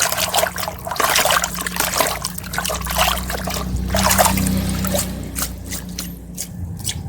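Running water trickling and splashing as a small plastic toy is rinsed clean of sand by hand.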